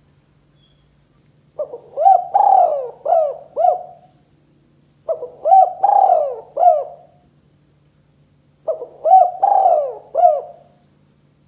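Spotted dove (tekukur) cooing: three calls a few seconds apart, each a short note, a longer drawn-out note, then two short clipped notes, the two-note ending that gives the 'kuk 2' call its name.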